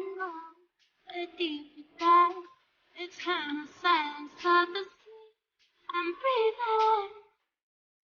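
A high singing voice, unaccompanied, in short phrases with silent gaps between them.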